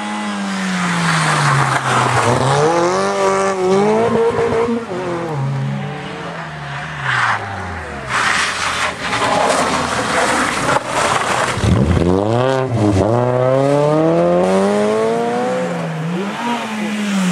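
Rally car engine revving hard, its pitch climbing and falling again and again through gear changes and lifts off the throttle. A burst of rough noise about seven to nine seconds in.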